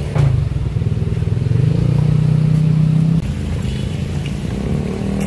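A small petrol engine running hard, its pitch stepping up about a second and a half in, then easing off abruptly about three seconds in and carrying on at a lower, steady level.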